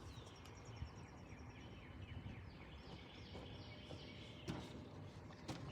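Birds chirping quietly, many short falling calls repeating throughout, over a low background rumble.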